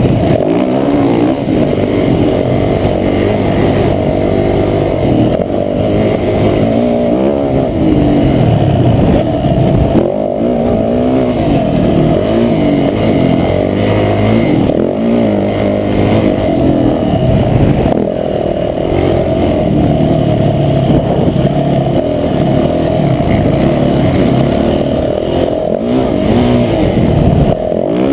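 Motocross bike engine, loud and close, revving up and down over and over as the throttle is opened and closed and the gears change.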